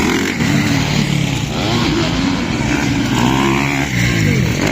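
Motocross bike engines revving, several at once, their pitch repeatedly rising and falling as the throttles open and close.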